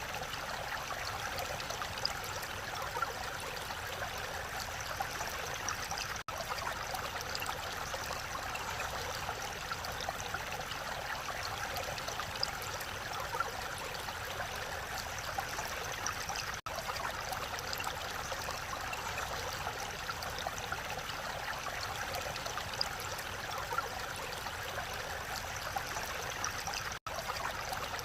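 Mountain valley stream rushing and splashing over rocks, a steady even wash of water noise. It cuts out for an instant three times.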